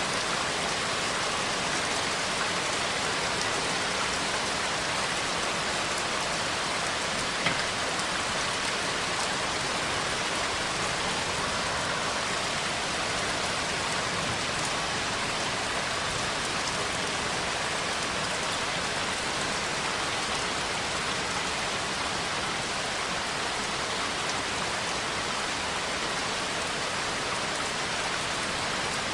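Steady rain falling, an even, unbroken hiss of drops, with a single sharp tick about seven seconds in.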